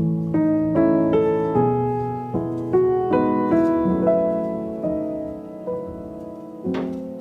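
Piano music: a slow melody over chords, each note struck and left to fade, about two notes a second.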